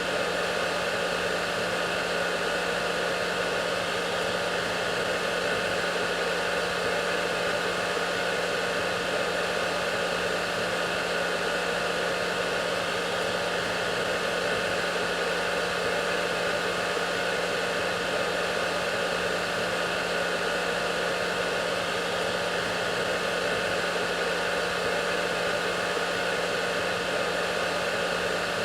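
Hair dryer running steadily: an even blowing hiss with a fixed motor hum and whine that never changes.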